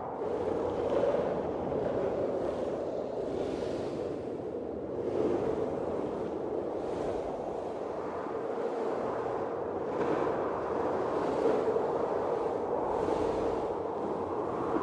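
Blizzard wind blowing steadily, swelling and easing in gusts every second or so.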